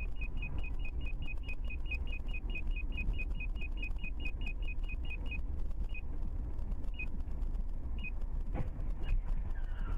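Low, steady road and engine rumble inside a moving car, with a short high electronic beep repeating about six times a second, slowing to about one beep a second some five seconds in.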